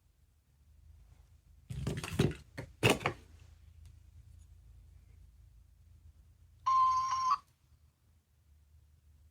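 Plastic clatter and a sharp click from a small sound-making capsule toy being handled, then near the end a short electronic beep from its tiny speaker, under a second long, with a slight step in pitch.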